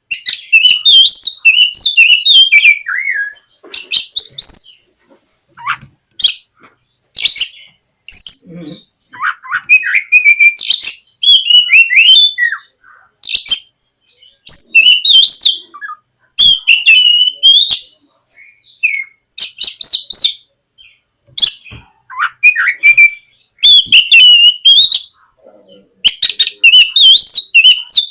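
Oriental magpie-robin (kacer) singing loudly: varied high whistles, glides and quick runs of notes in phrases a second or two long, separated by brief pauses.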